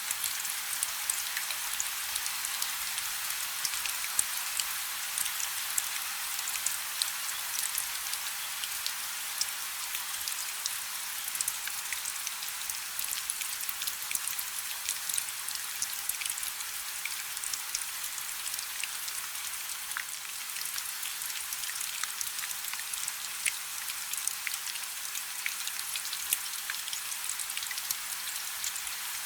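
Steady rain falling on a river's surface: a dense hiss of countless small droplet patters.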